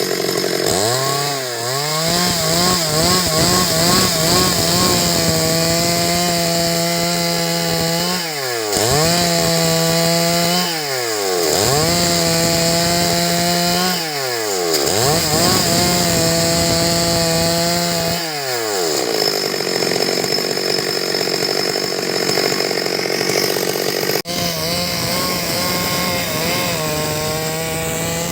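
Stihl MS 382 two-stroke chainsaw sawing wood, held at full throttle for stretches of a few seconds and dropping back toward idle between them, about five times over.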